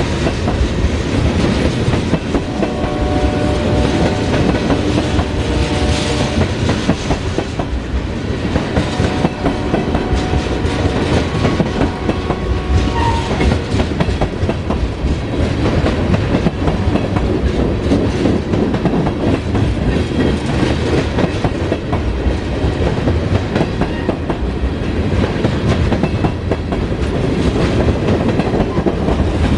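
Tank cars of a BNSF oil train rolling past: a steady rumble with the wheels clicking rapidly over the rail joints. Faint steady high tones come and go during the first half.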